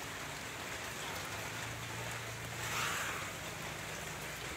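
Steady rain falling, with a brief louder swell about three seconds in.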